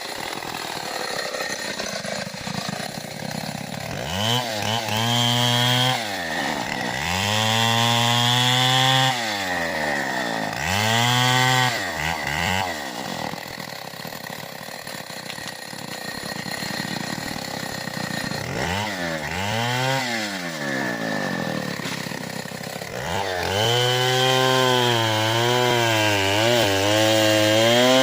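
Stihl 070 two-stroke chainsaw revved up and let back down several times in short bursts, with lower running between them. About two-thirds of the way in it is held at high revs, its pitch wavering as it works through the wood.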